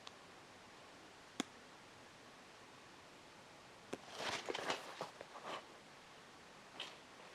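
Faint handling noise of a knit training shoe being turned and opened up by hand: a single sharp click a little over a second in, then a few seconds of rustling and scuffing about four seconds in.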